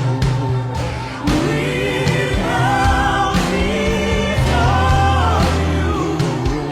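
Gospel worship music: singers holding long notes over a band, with a sustained bass and steady drum hits.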